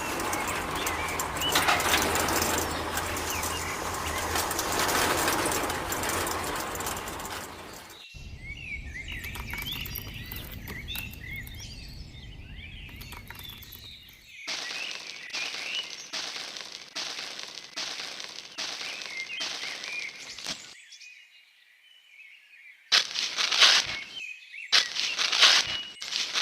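Small birds chirping over a steady rushing noise, broken by sudden cuts, with bursts of louder rattling noise near the end.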